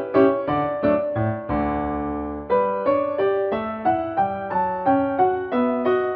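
Background music: solo piano playing a gentle waltz, a steady run of separate notes with one chord held for about a second near the middle.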